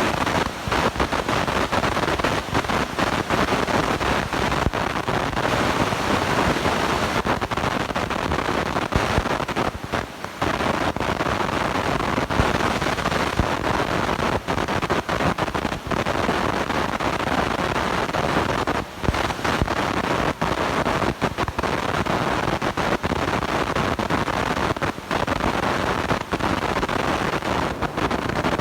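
Harsh, steady crackling static from a blown-out, distorting microphone, with brief dropouts now and then.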